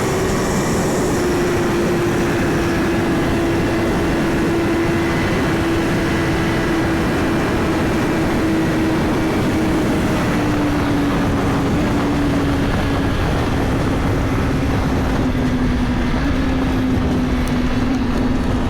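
Suzuki GSX-R1000 inline-four engine running at steady highway speed under heavy wind rush, its note sinking slowly and evenly as the bike eases off. No gear changes.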